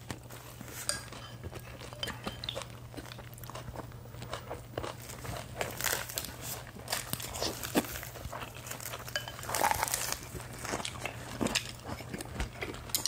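Close-miked eating: crisp lettuce wraps of spicy stir-fried pork being bitten, crunched and chewed, a string of irregular short crunches and wet mouth sounds.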